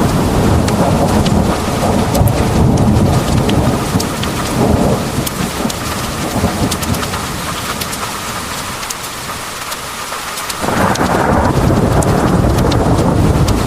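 Heavy rain pouring down, with many sharp drop ticks over a deep rolling rumble of thunder. The rumble dies away for a few seconds about two-thirds of the way in, then returns abruptly with the rain swelling louder.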